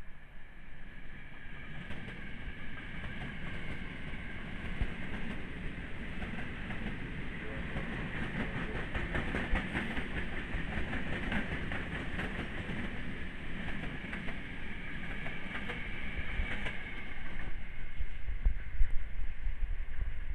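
Electric commuter train passing at speed. It builds to a steady high whine and a fast clickety-clack of wheels over the rail joints at its loudest about halfway through, then fades, and a low rumble swells near the end.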